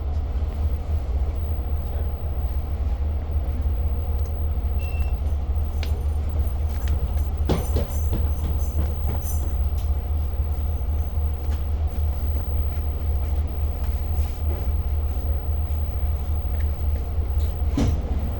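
Steady low rumble of a diesel-hauled Long Island Rail Road passenger train heard from inside the car while it rides the rails, with occasional clicks and rattles, the sharpest about halfway through and near the end.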